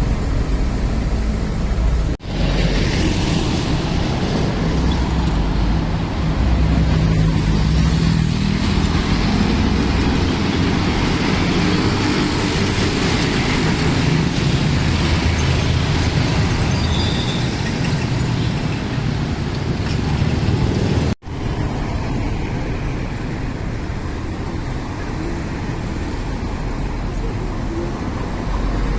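Heavy sugarcane transport trucks driving past with their diesel engines running, a steady low engine drone with road noise. The sound drops out abruptly twice, about two seconds in and again around twenty-one seconds.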